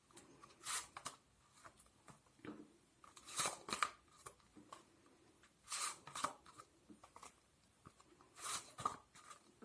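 Tarot cards being handled: short, faint rustles and slides of the cards, several coming in pairs every two or three seconds.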